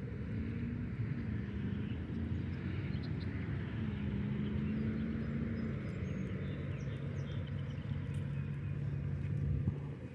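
Golf cart motor running as the cart is driven, its low hum shifting in pitch, then cutting off near the end.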